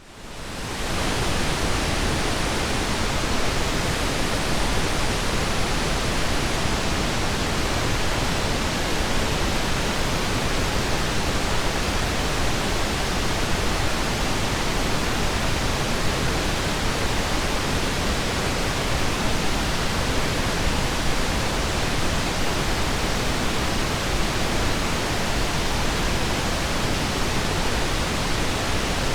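Steady synthetic pink noise, an even hiss that fades in over about the first second and then holds level.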